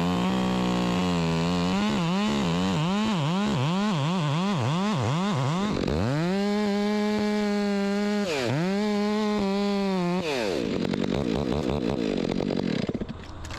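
Two-stroke chainsaw cutting through a honey locust limb. It revs in quick pulses about twice a second, then is held at full throttle for about four seconds with one brief dip, and drops off near the end.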